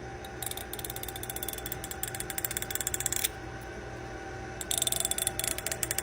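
Rapid ratcheting clicks of a fingernail drawn along the teeth of a comb, in two long passes with a short pause between: the sound said to make cats gag.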